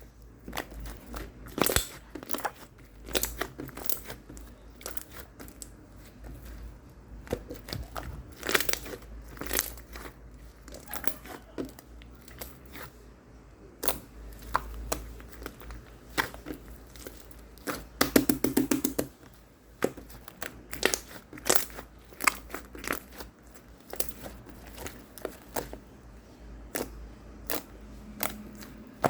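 Irregular crinkling and tearing, like paper or plastic wrapping being handled and torn, with scattered crackling clicks. A short buzzy tone comes about 18 seconds in.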